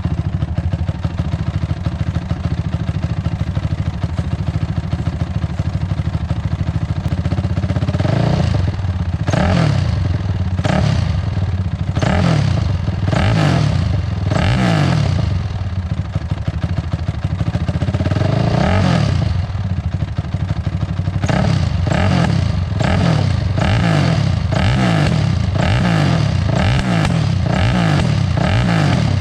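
Honda CRF450R single-cylinder four-stroke engine running through an FMF full exhaust (header and pipe), loud; the owner believes it has no spark arrestor. It idles steadily for the first several seconds, then is revved again and again, with quick throttle blips in fast succession over the last third.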